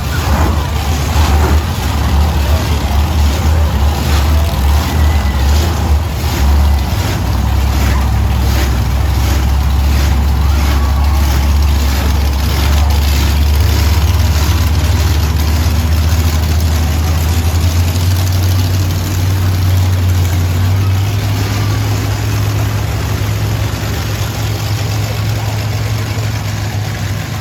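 Monster truck engines running, a loud, deep, steady rumble that shifts in pitch a few times, with rapid crackling in the first half.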